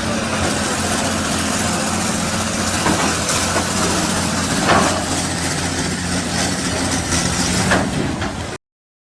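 Heavy engine running steadily with a low hum, with a few short knocks or clanks, then cutting off abruptly to silence near the end.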